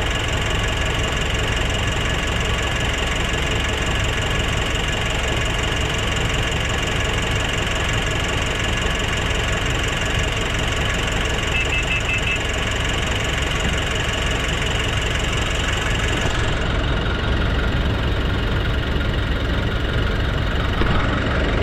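Nissan NV350's diesel engine running steadily with diesel clatter. The idle now holds even, with no hunting, after the suction control valve was replaced and the EGR and intake manifold were cleaned. About two-thirds of the way through, a high hiss drops away.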